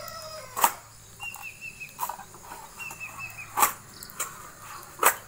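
A long bamboo pole rammed down into the ground four times, about one and a half seconds apart, each stroke a sharp knock. Between the strokes a bird chirps two quick runs of short notes, and a rooster's crow trails off at the very start.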